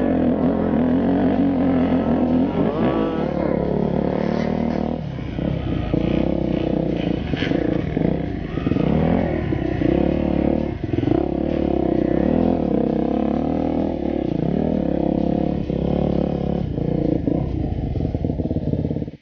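Yamaha YZ enduro motorcycle engine running close to a helmet-mounted camera, revving up and down repeatedly as the bike climbs a rough grassy trail.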